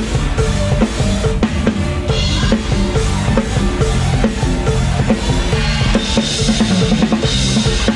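Live band music driven by a drum kit playing a fast, steady beat of kick and snare over bass. Cymbals wash over it about two seconds in and again near the end.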